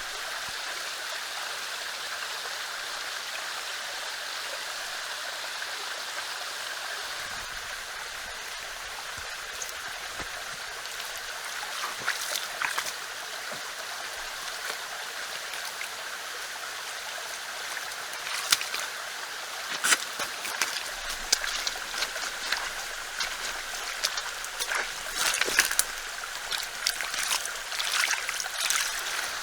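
Steady rush of a running stream. From about halfway in, sharp clicks and snaps come over it, growing frequent near the end.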